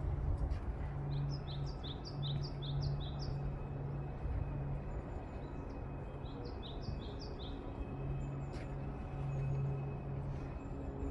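A songbird sings two quick phrases of repeated, down-slurred high notes, about a second in and again about six seconds in. Under it runs a steady rush of wind noise with an on-off low hum.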